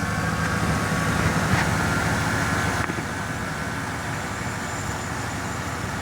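GMC gasoline engine idling steadily.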